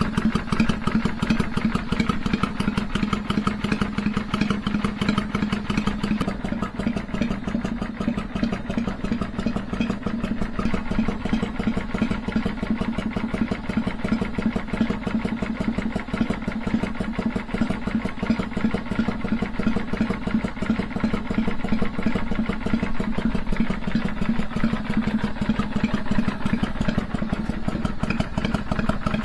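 Kawasaki Vulcan 400 V-twin engine idling steadily, with the loping three-beat (sanbyoushi) rhythm of its uneven firing.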